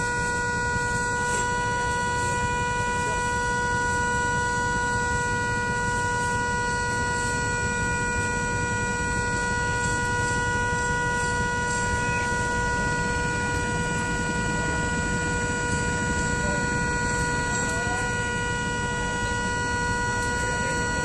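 A steady high-pitched tone that holds one pitch without a break, over a low, even mechanical rumble.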